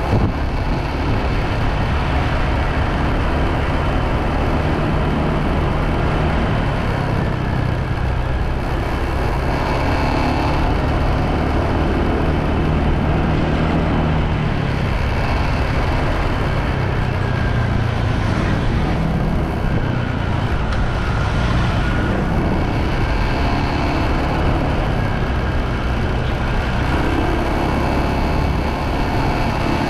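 Motorbike running steadily at riding speed, its engine drone mixed with rushing wind and road noise.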